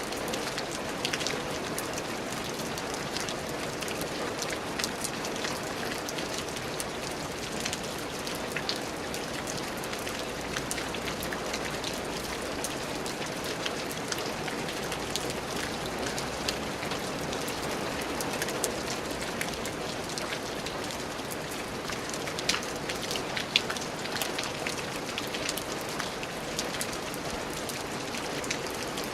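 Steady rain falling on a surface, a constant hiss with many separate drops ticking through it and a few louder drops now and then.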